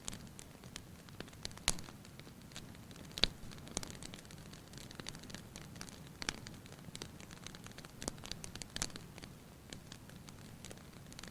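Wood fire in a fireplace crackling: irregular sharp pops and snaps over a soft steady hiss. The loudest pops come about a second and a half in and just after three seconds.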